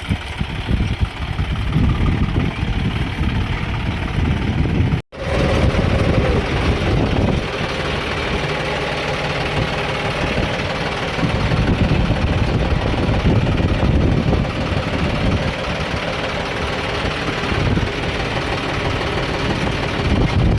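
John Deere 5310 tractor's three-cylinder diesel engine running steadily. The sound drops out for an instant about five seconds in, then the engine carries on.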